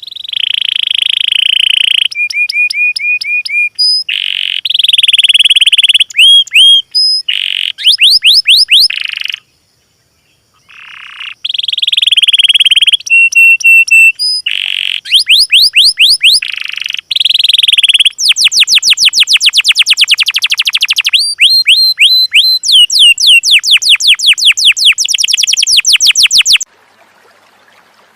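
Small songbird song used as a masteran tutor track: a string of varied high, clear phrases. These include trills, runs of repeated whistled notes and fast rattling series of down-slurred notes. It breaks off briefly about ten seconds in and stops shortly before the end.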